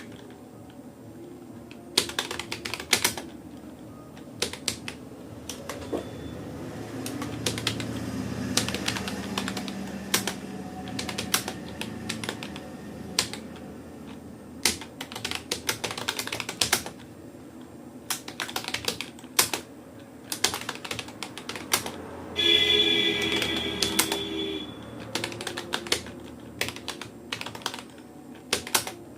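Typing on a Rapoo computer keyboard: keystrokes come in quick, irregular runs with short pauses between them. Near the end, a brief pitched tone sounds for about two seconds over the typing.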